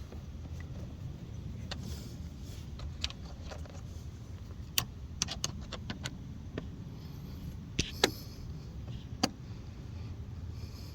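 Scattered light metallic clicks and ticks of a screwdriver working on car door-panel screws, irregular and a few seconds apart, over a steady low rumble.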